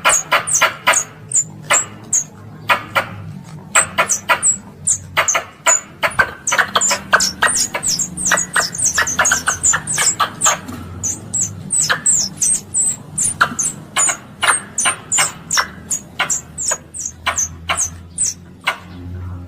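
Squirrel (tupai) calling: a rapid series of sharp, high chips, about three to four a second with short irregular pauses. This is the call used to attract other squirrels. A faint low hum runs underneath.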